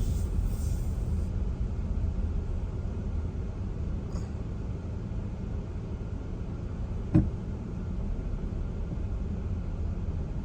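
Steady low rumble of a car driving along a road, with one short sharp click about seven seconds in.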